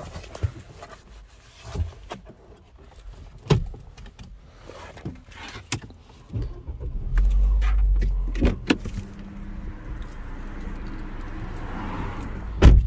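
Scattered clicks, then a 2012 Ford Focus engine cranks and starts cleanly about seven seconds in. It runs louder for a second or so, then settles to a steady idle. A sharp click comes near the end.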